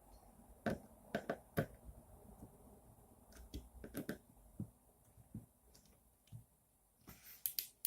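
Scattered small clicks and light knocks of acrylic frame parts and hardware being handled, with a quick run of clicks near the end.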